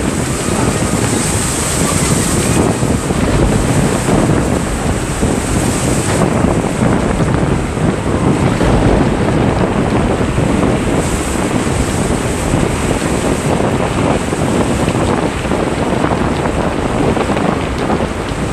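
Strong gusting wind blowing across the microphone, a loud, unbroken rushing noise, with the sound of the sea beneath it.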